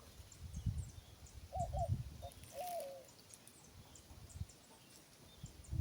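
A dove cooing: two short notes, then a longer note that falls away, about a second and a half in. Low bumps of handling or footsteps come and go beneath it.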